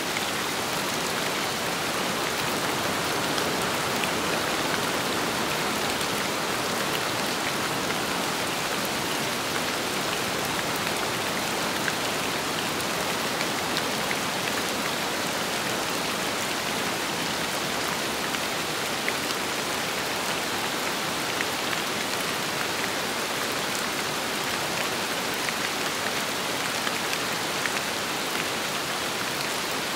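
Steady rain with wind: an even hiss of rainfall, flecked with many small drop ticks.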